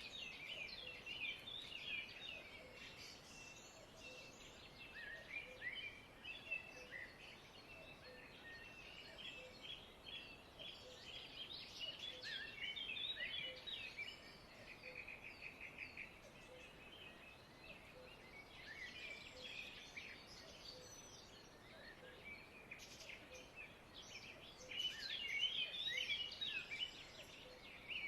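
Many small birds chirping and twittering together, with rapid overlapping calls and short trills; the chatter swells twice, once near the middle and again near the end.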